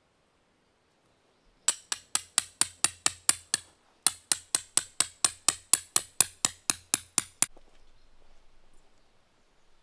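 Rapid, evenly spaced hammer strikes, about four to five a second: a run of about nine, a brief pause, then about sixteen more that stop suddenly.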